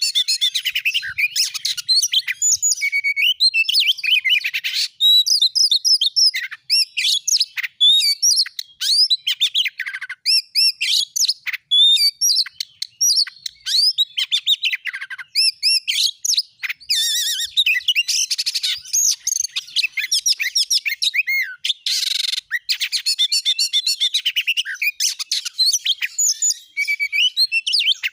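Oriental magpie-robin (kacer) singing without pause: a fast, varied run of high whistles, chirps and trills, densest near the start and again around the middle.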